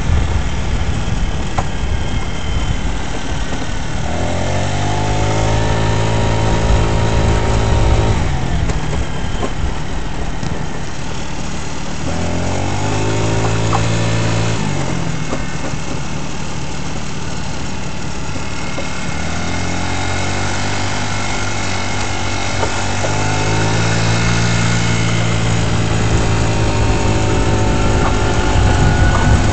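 GY6 scooter's single-cylinder four-stroke engine running, with the throttle opened three times. Each time the pitch rises and then holds steady for a few seconds before dropping back.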